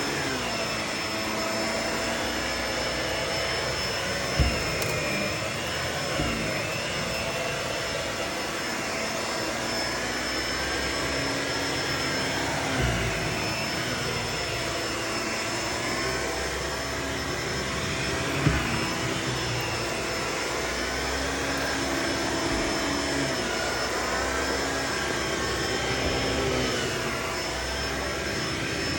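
Vacuum cleaner running steadily, its motor tone wavering up and down as it works, with a few short sharp clicks.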